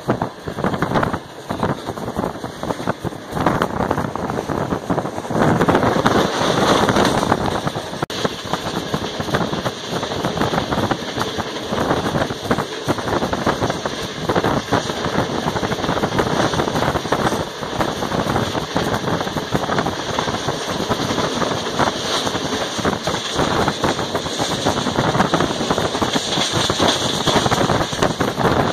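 Passenger train running at high speed, heard from on board: a dense, loud rattle of wheels and coaches on the rails, with wind rushing past the open window.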